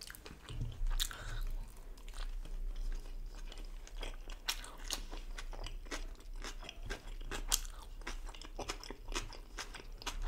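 Close-miked chewing of a steamed mutton momo: a steady run of many short, sharp mouth clicks.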